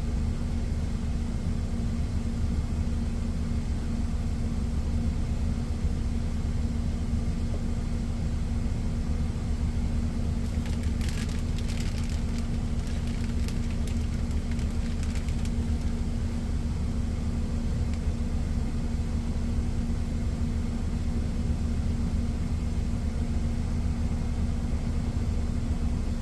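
Steady low rumble and hum of a parked semi-truck's engine idling. Light clicking and rustling run over it for several seconds about halfway through.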